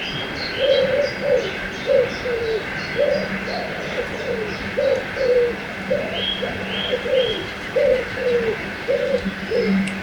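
A bird giving low, cooing two-note calls over and over, the second note of each pair falling. Higher chirps from small songbirds come in around it, over the steady rush of a river.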